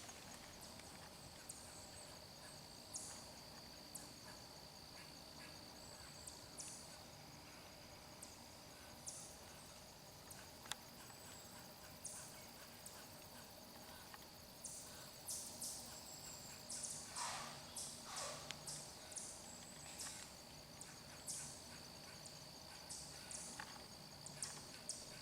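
Quiet woodland ambience: a steady high-pitched insect drone, with scattered short high chirps or clicks that come thicker about 15 to 20 seconds in.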